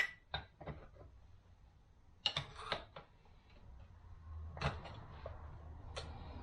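Scattered light metallic clicks and knocks of hand tools and transmission parts being handled, with a short cluster of clatter about two seconds in. A low hum comes up about four seconds in.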